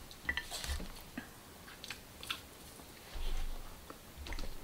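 Close-miked chewing of soft stollen, with scattered small mouth clicks and smacks and a few soft low bumps.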